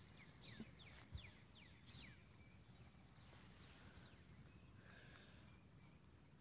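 Faint birdsong: a quick run of short, down-slurred whistled notes, trailing off about two seconds in. Under it are a faint steady hiss and a couple of soft low thumps.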